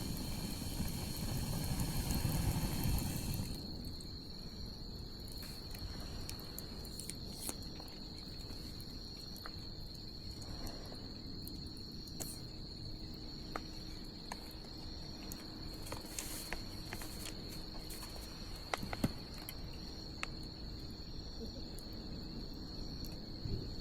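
Wood bonfire crackling with scattered sharp pops, over a steady high cricket trill. A louder rush of noise fills the first few seconds, then settles.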